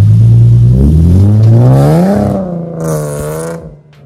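Infiniti G37's V6 engine accelerating hard as the car pulls away. Its pitch rises for about two seconds, drops back, then the sound fades out near the end.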